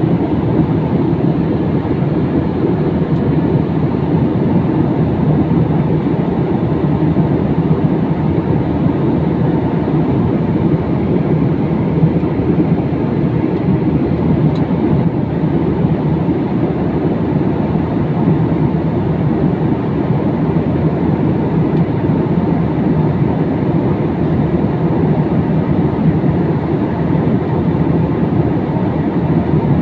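Steady cabin noise of a jet airliner in flight: the even rumble of the engines and the air rushing past the fuselage, heard from inside the passenger cabin.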